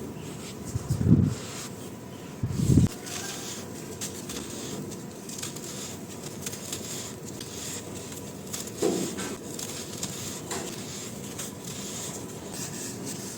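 Soft, dry, crispy blocks being crushed and crumbled by hand in a dry tub: continuous fine crackling and crunching, with two heavy low thuds about a second and two and a half seconds in and a softer one near the end.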